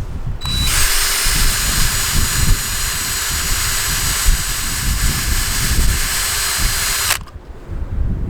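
Electric drill running steadily for about six and a half seconds while drilling out a bolt snapped inside a differential, then stopping abruptly.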